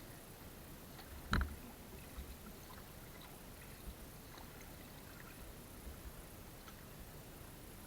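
Water sloshing as a raft is paddled or poled along a river, with a sharp knock about a second and a half in and a few softer knocks after.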